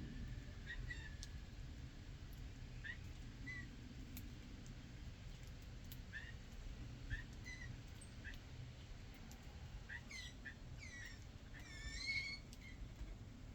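Small songbirds calling: scattered short chirps through the first part, then a quicker run of sweeping chirp notes about ten seconds in, over a steady low background rumble.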